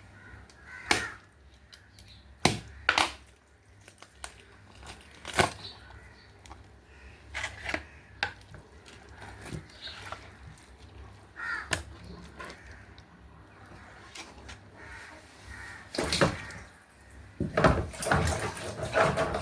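Irregular sharp knocks and clatter from kitchen work, about a dozen spread out, with a quick cluster near the end. There are also a few short hoarse calls.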